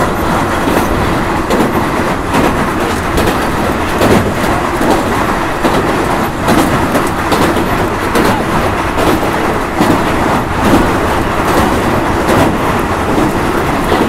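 Passenger train running across a steel truss bridge, heard from an open coach doorway: a loud, steady rumble with repeated clanks of the wheels over the rail joints.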